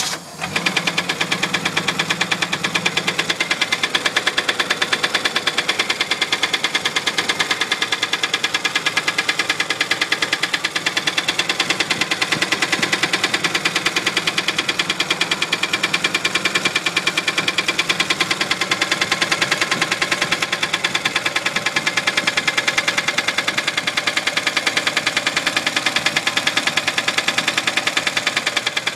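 1966 Studebaker engine idling with a fast, steady, regular knock.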